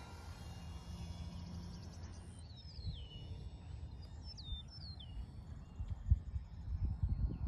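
Birds calling outdoors with short, downward-sliding chirps, over a steady low wind rumble on the microphone. A few louder low thumps come near the end.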